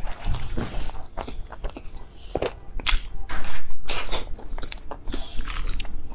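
Close-miked chewing and biting of soft cream-filled ice cream bread, with many short smacking clicks from the mouth.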